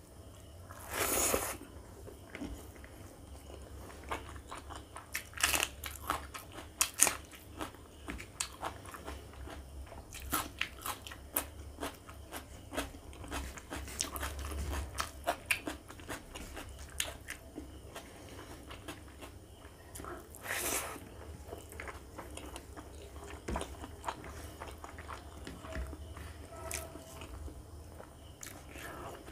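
Close-miked eating sounds: wet chewing and biting with many small mouth clicks and a few louder crunches, together with fingers squishing and mixing rice and curry on a plate.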